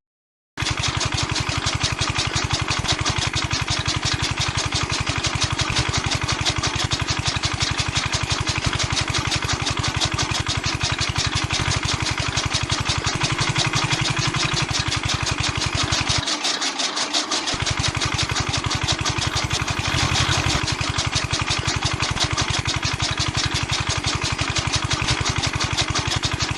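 Small engine running steadily with a fast, even pulsing beat.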